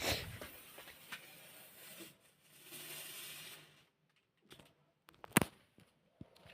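Homemade firecracker fizzing with a hiss that dies away after about three and a half seconds, fizzling out instead of going off. A few small clicks follow, with one sharp snap about five seconds in.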